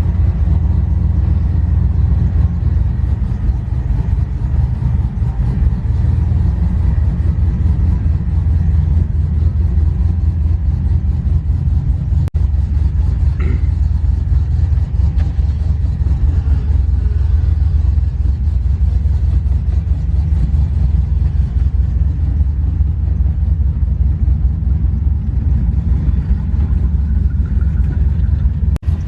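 Pickup truck's engine and road rumble, steady and low, as heard while it runs and drives.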